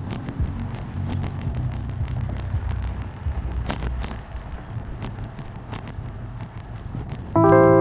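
Rumble and hiss of riding on a bicycle, wind and road noise on the action camera's microphone, with scattered light clicks. Near the end, music with held notes starts abruptly and is louder.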